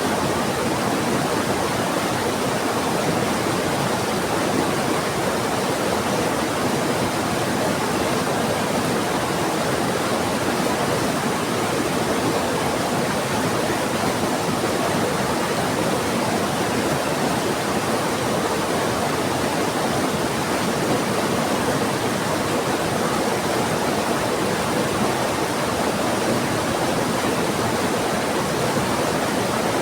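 A fast-flowing river rushing, with heavy rain falling, making one steady, even roar of water that does not change.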